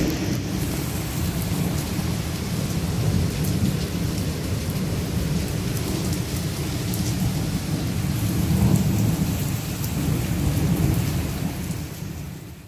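Heavy rain pouring down with hailstones, scattered sharp ticks over a dense hiss and a deep, steady rumble, fading out at the very end.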